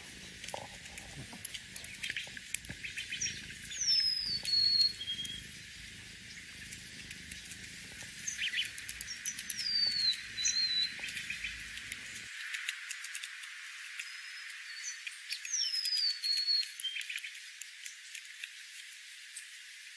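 Small birds calling: a descending whistled call comes three times, about six seconds apart, each ending in a short lower note. Light, scattered clicks run between the calls.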